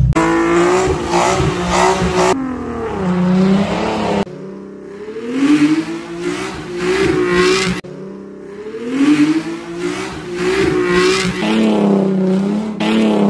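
Infiniti G37 coupe's 3.7-litre V6 revving up and down again and again while the car spins donuts, in several short stretches that cut off abruptly.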